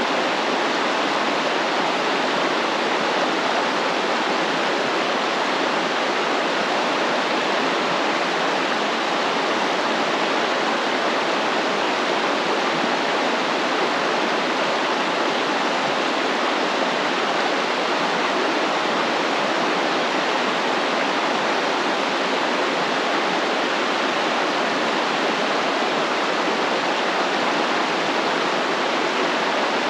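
Stream water flowing and rushing steadily, an even, constant wash with no breaks.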